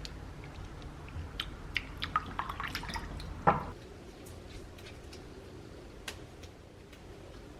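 Water dripping and splashing, with a run of quick small clinks and one louder knock about halfway through, over a steady low hum.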